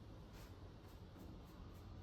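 Near silence: room tone with a few faint, soft high scratches spaced through it.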